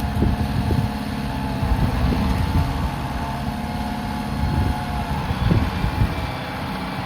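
Kubota tractor's diesel engine running steadily, with a few short low thuds over the top.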